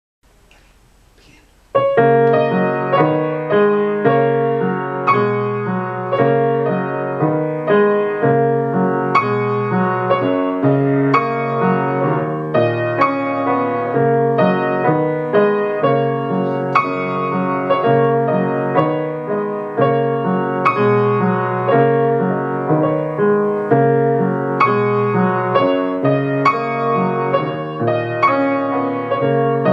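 Piano playing a short piece at an even, steady pace, beginning about two seconds in after a brief quiet moment.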